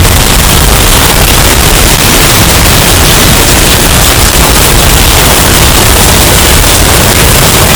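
Hurricane wind sound effect, bass boosted until it distorts: a steady wall of loud, clipped noise with heavy bass and no breaks.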